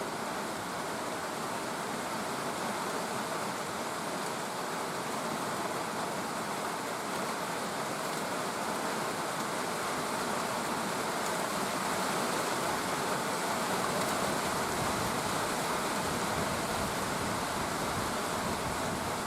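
Steady rain falling as a dense, even hiss, growing slightly louder in the second half.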